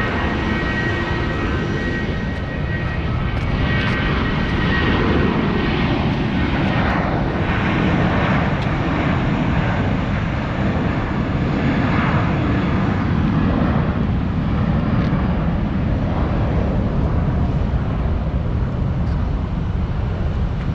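Boeing 737 jet airliner taking off, its engines at takeoff power giving a steady, deep rushing noise that grows a little louder a few seconds in.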